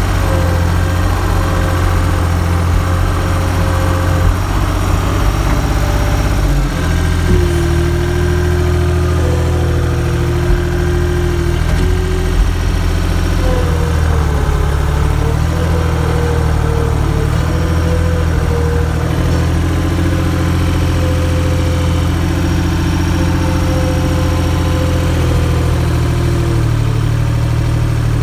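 A vehicle engine running steadily, with a whine above it that steps up and down in pitch several times; the engine note shifts about six and a half seconds in.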